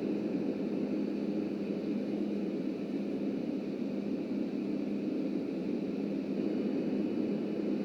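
Steady rumble of a New York City subway garbage train running along the tracks, with a constant low hum under it.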